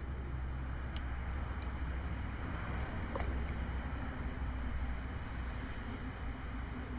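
Motor oil pouring from a bottle through a funnel into a small engine's oil filler, a steady rushing, liquid sound.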